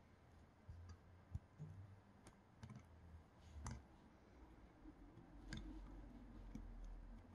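Faint, irregular clicks and light knocks of small extruder parts being handled and fitted during reassembly of a Creality Sprite 3D-printer extruder, with a low rumble in the last couple of seconds.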